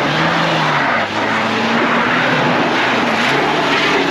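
Off-road vehicle's engine running hard under load as it climbs a trail obstacle, its pitch wavering slightly.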